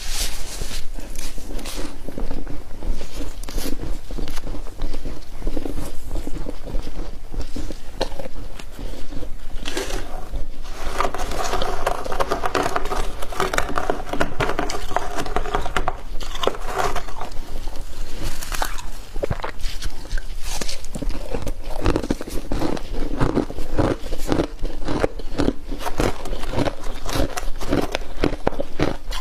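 Frost ice being bitten and chewed, a dense run of crisp crunches, with a steadier pitched sound for a few seconds near the middle.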